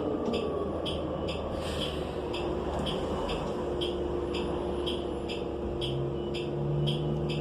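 Cummins Westport L9N natural-gas engine of a New Flyer XN35 transit bus running steadily, heard from inside the cabin with the HVAC off. A steady hum comes in about halfway through, and a lower one near the end. A sharp ticking repeats about three times a second throughout.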